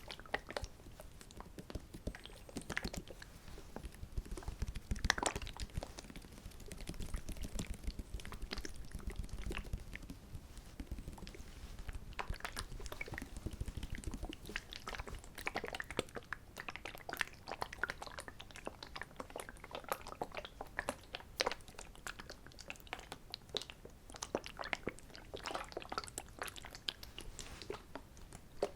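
Close-miked ASMR trigger sounds: a dense, irregular patter of soft clicks and crackles, with a low rumble of handling noise from about four to fourteen seconds in.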